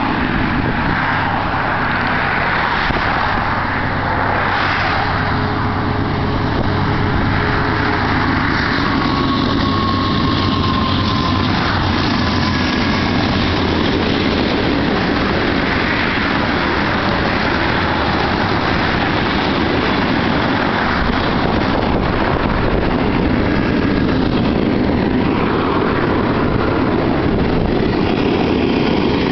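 Freight train of tank cars passing at speed close by: a loud, steady rumble and rush, mixed with passing highway traffic.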